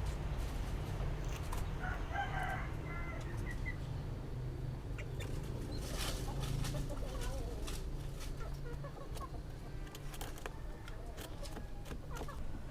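Quail giving low humming, throat-clearing calls, made with its beak closed. A few clicks and a brief higher chirp sound alongside.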